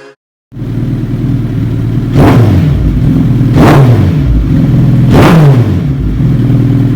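Suzuki Hayabusa's inline-four running through an aftermarket Racefit titanium slip-on exhaust, loud at idle and blipped three times, each rev rising sharply and falling back. The sound cuts in abruptly about half a second in.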